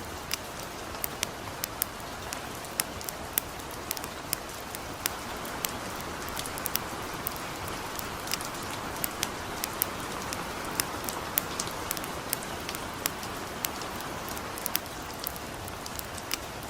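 Steady light rain hiss with a campfire crackling over it: frequent, irregular sharp pops and snaps, several a second.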